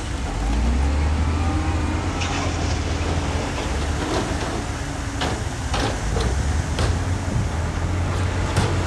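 Heavy diesel earthmoving machinery running steadily with a deep engine drone. Scattered sharp clanks and knocks come through, about half a dozen of them.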